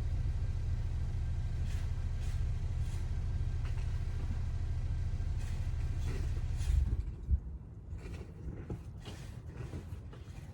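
Steady low rumble with short brushing and scraping strokes as snow is cleared off a truck. About seven seconds in comes a loud thump, after which the rumble drops away and only the scraping strokes remain.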